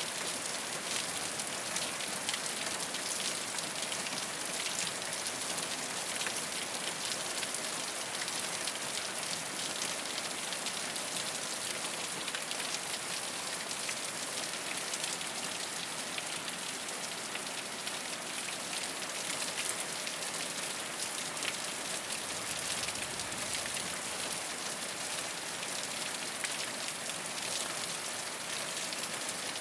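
Steady rain falling on a rooftop: a dense, even patter of many small drops.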